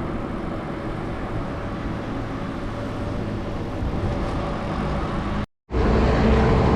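Steady road and traffic noise heard while riding a bicycle along a city avenue, with rumbling wind on the microphone. It is broken by a split-second dropout to silence near the end, after which it comes back louder.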